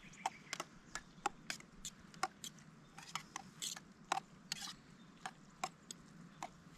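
Plastic food packaging being handled and gathered up, giving faint, irregular crinkles and clicks, a few a second.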